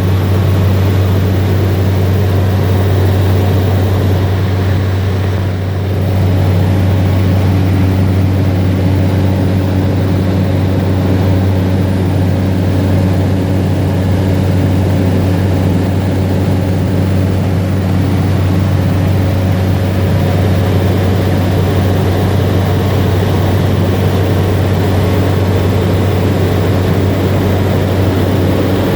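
Cessna Caravan's single turboprop engine and propeller droning steadily in cruise flight, heard from inside the aircraft, with a deep, even propeller hum over a constant rush. The level dips slightly for a moment about five seconds in.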